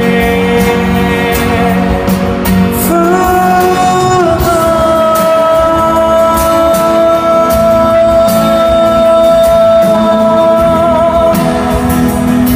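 A live pop-rock band playing a ballad, with one long sung note rising about three seconds in and held until near the end over guitar, bass and drums, in a large hall.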